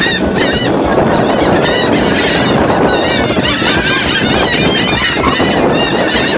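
A large flock of birds calling all at once, a dense din of many short overlapping calls.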